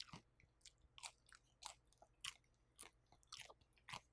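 Close-miked chewing of crisp air-fried veggie gyoza: quiet, crunchy chews about two a second.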